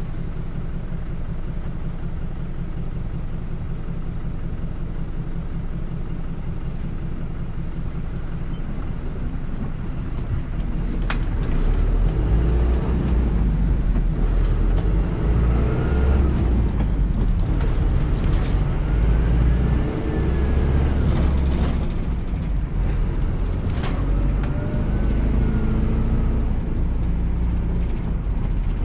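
City bus heard from on board: the engine idles with a steady low rumble, then about ten seconds in it pulls away louder, with a whine that rises and falls several times as it picks up speed.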